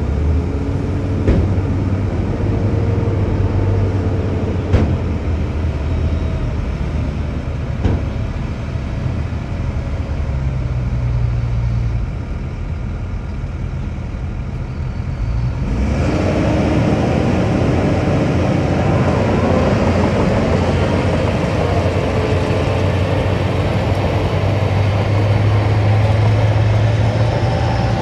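Diesel engine of heavy earthmoving machinery running steadily, with a few sharp metal clanks in the first several seconds. About 16 s in, the sound turns louder and busier as the machine works harder.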